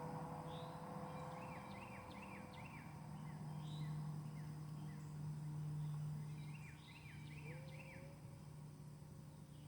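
Small birds chirping in two quick series of short descending chirps, one about a second and a half in and one near the end, over a steady low hum.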